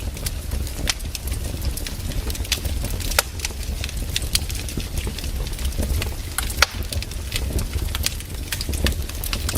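Firewood burning in a fire: irregular sharp crackles and pops, a few of them louder, over a steady low rumble.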